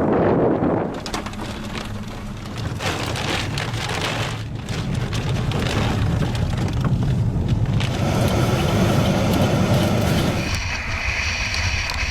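Tornado storm noise: heavy rain and wind, with many sharp hits. A steady whine of several tones joins about eight seconds in.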